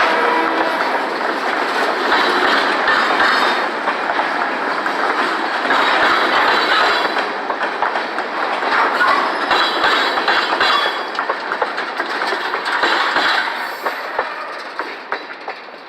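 Freight train cars rolling past on the rails, their wheels clicking over the rail joints with a little wheel squeal. A horn blast cuts off about half a second in, and the rolling noise fades near the end.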